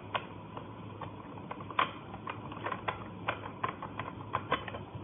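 Irregular clicks and small knocks of a manual meat grinder's cover ring being twisted clockwise onto the body, with the loudest knock about two seconds in.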